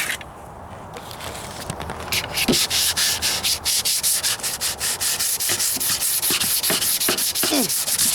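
Hand sanding of body filler and spot putty on a steel rocker panel: sandpaper on a sanding block scraping back and forth in quick strokes, about four a second. The sanding starts faintly about a second in and grows louder after about two seconds.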